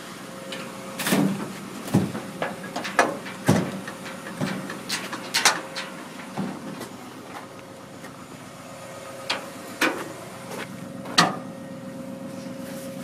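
A series of irregular knocks and clanks, like scrap items being handled and set down, over a steady low hum.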